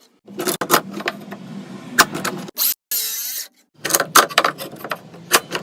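Woodworking tool sounds in short, abruptly cut snippets: a small motor's low hum with sharp clicks and knocks from the work.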